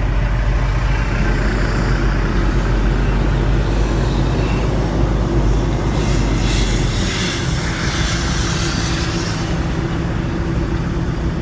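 Semi-truck diesel engine running steadily as the rig is backed up to a loading dock, heard from inside the cab. About seven seconds in the engine note changes, with a brief hissing noise over it.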